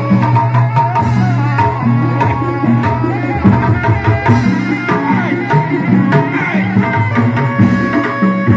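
Traditional debus accompaniment music: fast hand-drum beats over a steady low drone, with a melody line above.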